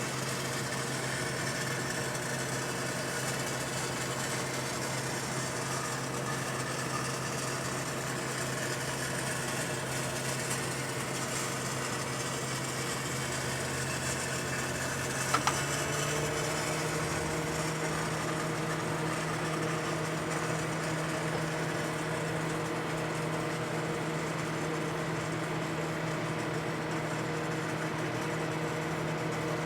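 Danby microwave oven running with a steady hum while a mango cooks inside. About halfway through there is a brief click and the hum shifts to a slightly higher pitch.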